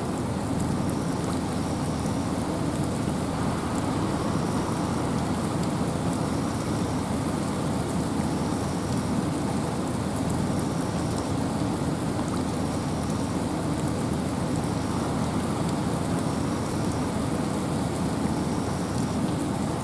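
Steady rain and wind in a forest: a constant, even rushing wash, heaviest in the low range. A faint short high note repeats about every two seconds.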